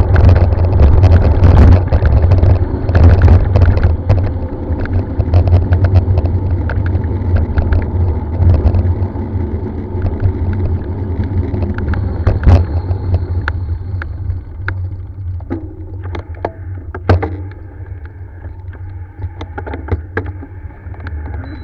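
Wind rumbling on the microphone during a ride up a rough trail, with many sharp knocks and rattles from the bike jolting over the ground. It is loudest in the first few seconds and eases off toward the end.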